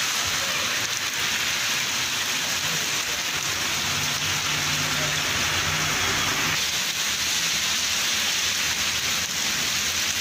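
Heavy rain pouring down onto a street, a steady hiss.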